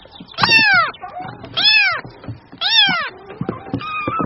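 Kitten meowing three times, short high-pitched mews about a second apart, each rising and then falling in pitch.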